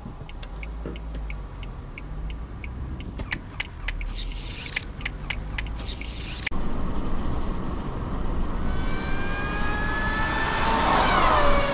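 Car cabin noise recorded by a dashcam: low road and engine rumble with a steady ticking about three times a second, then a cluster of sharp clicks. Near the end, several rising tones climb and then level off.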